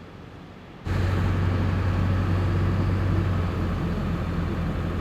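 Truck driving at road speed: a steady low engine hum with tyre and road noise, coming in suddenly about a second in.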